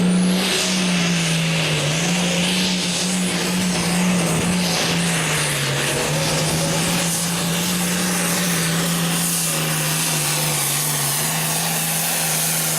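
Hot farm pulling tractor's engine at full throttle under load during a pull, a loud steady drone whose pitch sags and recovers a few times.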